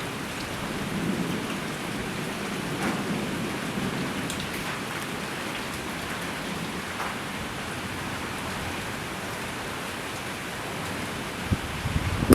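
Steady rain falling during a severe thunderstorm, an even hiss of drops, with a low rumble swelling in the first few seconds and a few knocks near the end.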